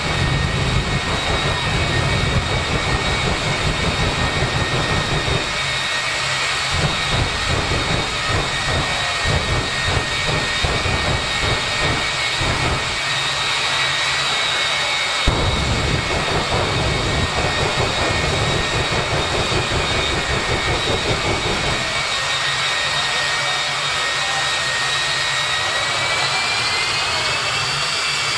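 Turbine jet engine of a jet-powered drag racing car running with a steady high whine over a low rumble. The whine starts rising in pitch near the end as the engine spools up.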